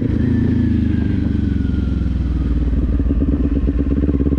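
Kawasaki Z400 parallel-twin engine running at low revs, its pitch dropping in the first half-second as the bike comes off the throttle, then holding steady.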